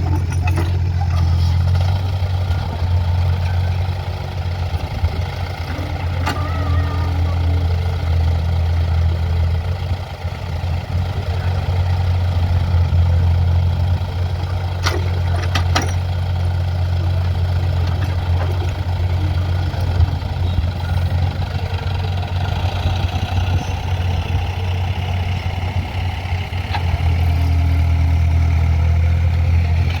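Diesel engine of a JCB digging machine running steadily under varying load while it digs and loads soil, with a couple of sharp clanks about halfway through.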